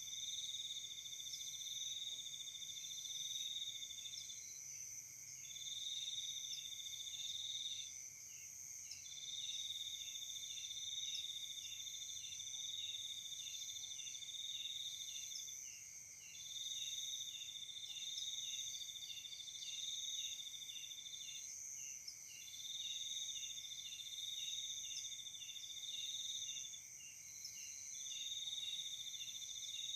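Night insects such as crickets calling in a chorus: a high trill that sounds in phrases of a few seconds with short gaps, over a constant high ringing and a regular pulsed chirping.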